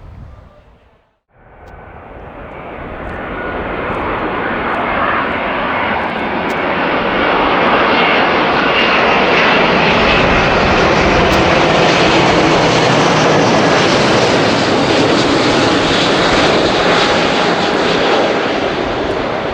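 Jet airliner engines: after a brief silence about a second in, the engine noise swells over several seconds as the aircraft passes close by, then holds loud and steady.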